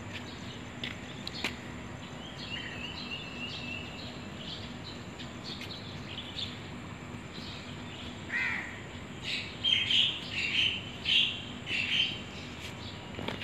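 Birds calling: a quick run of short chirps a few seconds in, then a cluster of louder calls close together in the last few seconds, over steady background noise.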